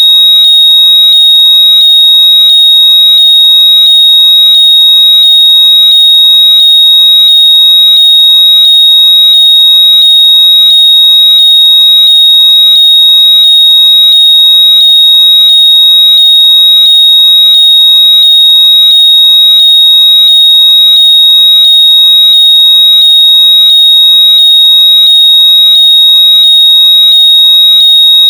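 Very loud electronic high-pitched tone, steady near 4 kHz with fainter rising chirps repeating quickly and evenly beneath it. It is a shrill locator noise, meant to be played at full volume through earbuds or headphones so they can be heard and found.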